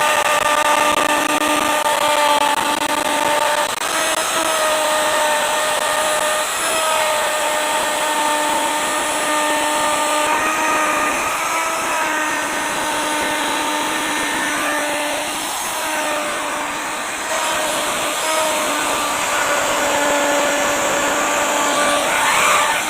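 Electric wood router running and cutting into wood, a steady motor whine over the noise of the cut, its pitch dipping and recovering every few seconds as the load changes.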